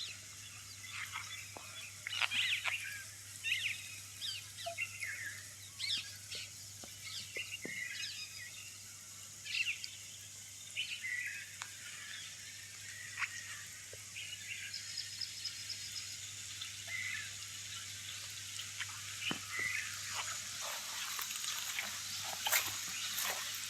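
Birds chirping in short, scattered calls over a steady high hiss and a low hum. A patter of quick ticks thickens near the end.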